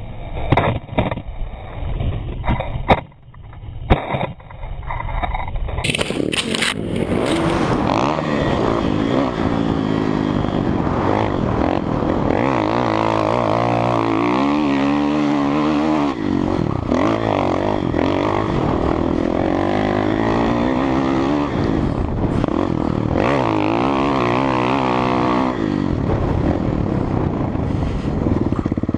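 Kawasaki KX450F four-stroke single-cylinder dirt bike with a Two Brothers exhaust, ridden on a motocross track, its engine note rising and falling with the throttle. The engine is loud. The first few seconds are muffled, with a few knocks, before the full engine sound comes in about six seconds in.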